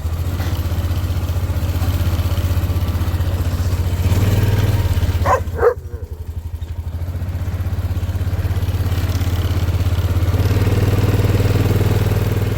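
A vehicle engine running steadily, working a little harder at times, with two short squeaks in quick succession about five and a half seconds in.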